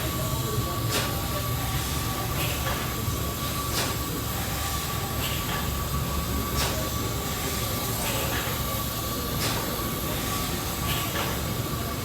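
Large steam engine running steadily, with a low rumble and a sharp regular click or knock about every second and a half as it turns over, and a thin steady whine above.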